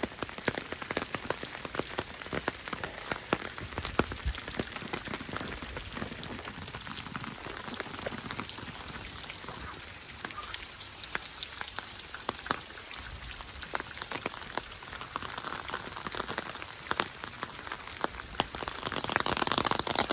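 Rain falling, with many separate raindrops ticking irregularly close to the microphone over a steady hiss; it gets louder near the end.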